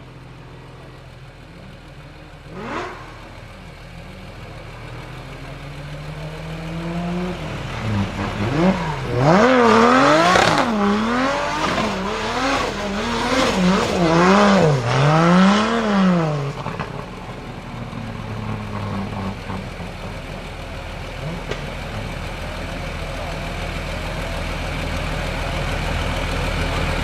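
Racing car engine revved hard up and down about once a second, with the throttle blipped repeatedly, growing louder as the car comes near. It then settles into a steadier, lower running note.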